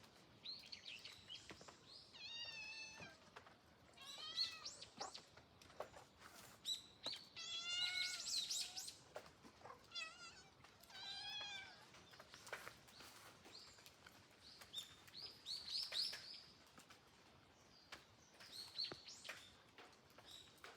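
Young kittens, nearly four months old, meowing over and over: some long, wavering meows and many short, high chirping calls, spaced a second or two apart.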